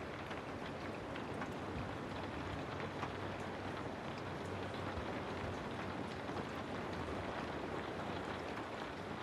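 Steady rain falling, an even hiss with many small sharp drop ticks scattered through it and a low rumble underneath.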